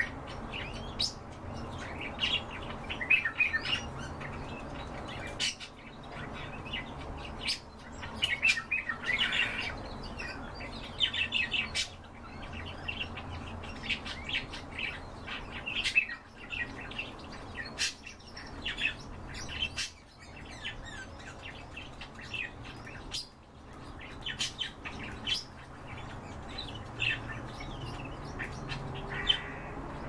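Birds chirping in short, high clusters again and again, with sharp clicks scattered between the calls.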